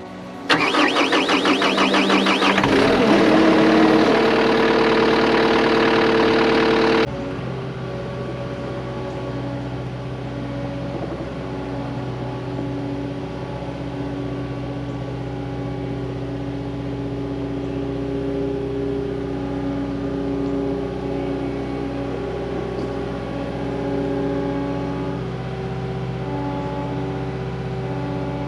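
Cat 259D compact track loader's diesel engine cranking and catching about half a second in, running loud for a few seconds with a rising whine. About 7 s in it drops suddenly to a steady idle.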